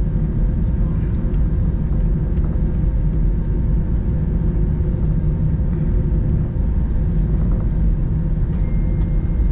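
Steady low rumble inside an Airbus A321 cabin as it taxis to the gate after landing, the engines at idle, with a few faint clicks.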